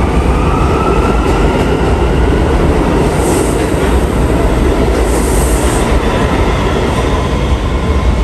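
New York City subway train running through the station close by: a loud, steady rumble of wheels on rails with a faint gliding whine, and two brief high squeals about three and five seconds in.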